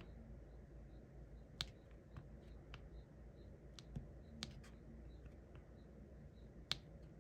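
Faint, irregular light clicks of a diamond-painting drill pen tapping resin drills onto the canvas, a few louder than the rest.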